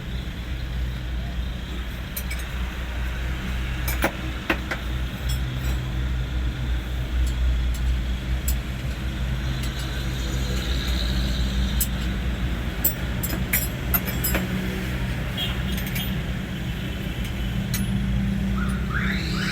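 Hino 500 truck diesel engine running steadily at idle, with scattered metallic clinks and taps of tools on metal.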